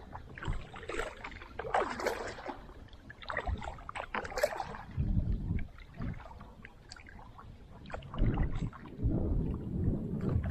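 Strong wind gusting on the microphone in low rumbling blasts, with water splashing and slapping around a small boat on a choppy lake.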